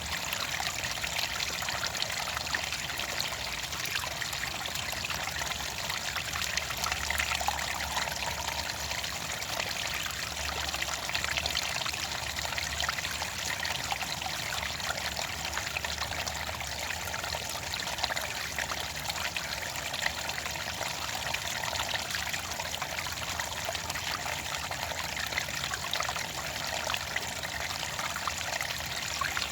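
Water trickling and splashing continuously, a steady stream of small splashes with no change.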